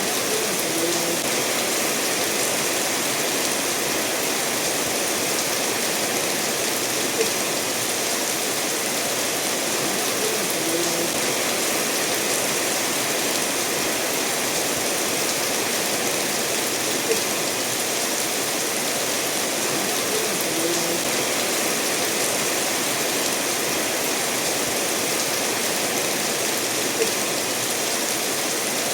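Steady rainfall mixed with a stream running over stones, an even, unbroken hiss of water. A faint tick stands out about every ten seconds.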